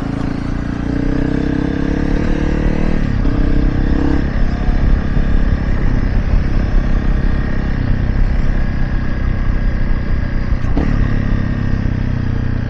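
Honda CRF300 Rally's single-cylinder four-stroke engine running while riding. Its pitch climbs over the first three seconds, drops back about three to four seconds in, then holds steady over a constant rush of noise.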